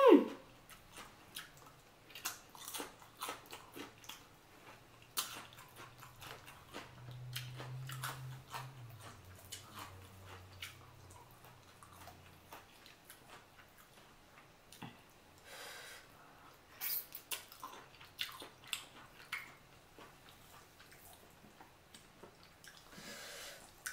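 Close-miked chewing and wet lip smacks from eating boiled chicken and lettuce, with many short clicks spread throughout. A low hum lasts a few seconds near the middle.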